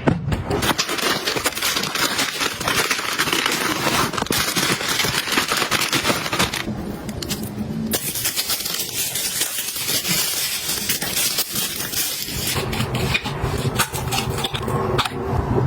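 Dense crackling and clattering of small hard items and packaging being handled, with a short lull in the crackle about seven seconds in.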